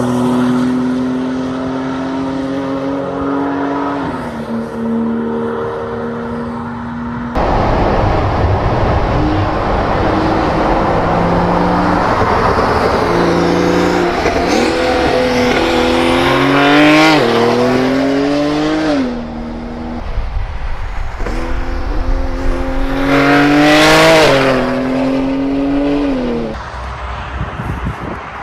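Porsche 911 Turbo S's 3.8-litre twin-turbo flat-six under hard acceleration several times, the engine note climbing and then dropping sharply at each upshift. A steadier stretch comes first, with a sudden jump to louder running about seven seconds in.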